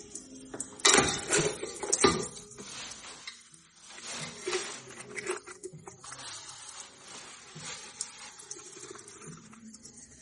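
Live river crabs scrabbling and clicking against a pot, with irregular scratches and taps and two louder knocks about one and two seconds in.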